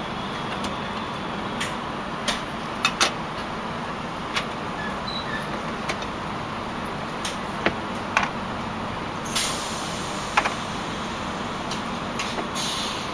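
Steady running noise inside a moving passenger train carriage, with scattered sharp clicks and knocks and two brief rushes of noise, about nine seconds in and near the end.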